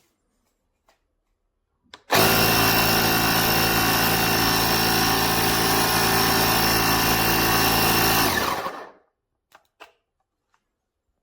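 Oasser portable air compressor switched on about two seconds in, running with a steady motor-and-piston hum for about six seconds, then switched off and winding down.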